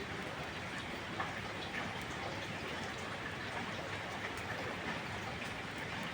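Steady heavy rain falling, an even hiss of drops with scattered light ticks through it.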